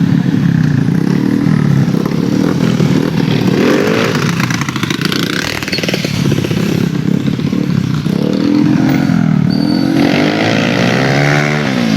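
Motorcycle engine revving, its pitch rising and falling again several times, with the strongest sweeps up about four seconds in and near the end.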